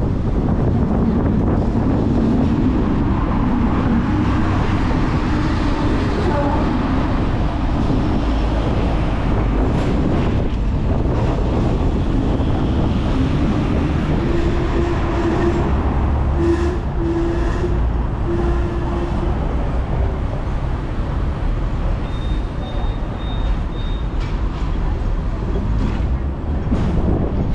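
Hong Kong double-decker tram running along the street tracks: a steady rumble of wheels on rails and the car's running gear. A humming tone comes and goes in the middle, and a brief faint high squeal follows near the end.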